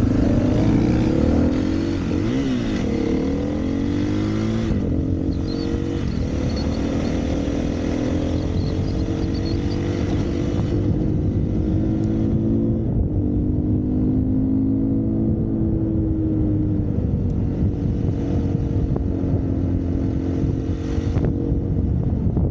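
Dirt bike engine running under way, its pitch rising and falling with the throttle and stepping at a few gear changes.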